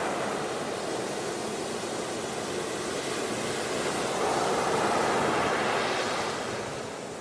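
Steady rushing noise, swelling about four seconds in and easing near the end.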